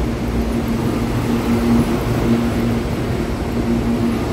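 Electric commuter train cars rolling past: a steady low rumble of wheels and running gear, with a low hum that swells and fades every second or so.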